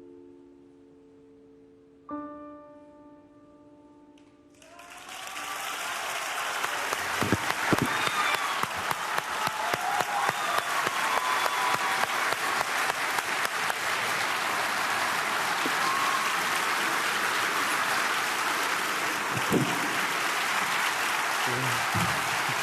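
Solo piano closing: held notes fade, and a final chord is struck about two seconds in and left to ring away. Then an audience breaks into applause with cheering; it swells over the next couple of seconds and holds loud and steady.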